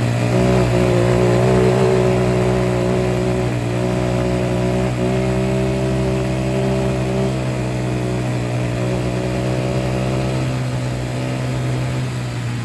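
An engine running steadily at a constant low pitch.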